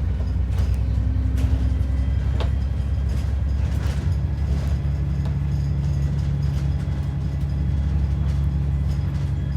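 ADL Enviro 400 double-decker bus heard from inside the cabin: a steady low engine drone with a few short rattles and clicks from the bodywork.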